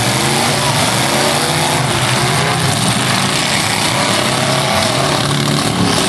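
Several full-size demolition derby cars' engines running and revving together: a loud, steady din whose pitch wavers up and down.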